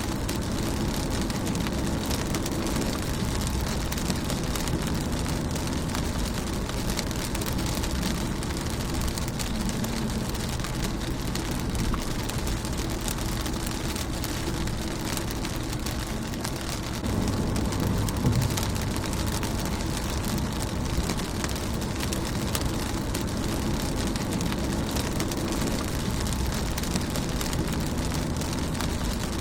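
Steady rain falling on a car's windshield and body, an even patter of drops. A low rumble swells briefly a little over halfway through.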